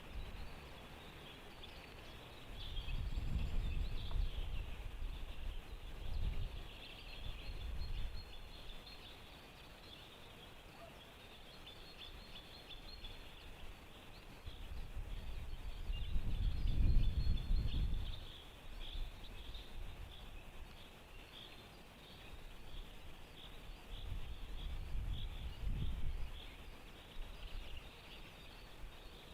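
Wind gusts buffeting the microphone in four swelling low rumbles, the strongest about halfway through, over a steady chorus of distant small songbirds chirping and trilling.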